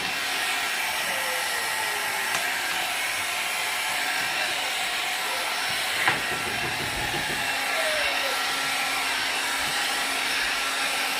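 Hot-air hair dryer with a comb attachment blowing steadily, a constant rushing hiss with a low hum under it. A single sharp click about six seconds in.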